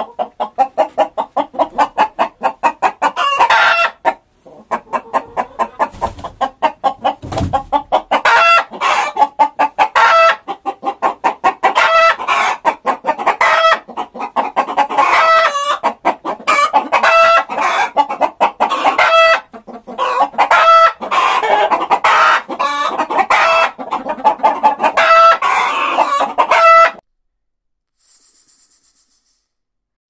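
Rooster clucking in fast runs of notes, broken again and again by short higher calls. It stops abruptly near the end.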